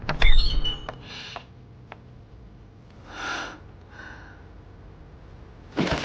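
A sudden loud thump, then a person's heavy breaths and gasps.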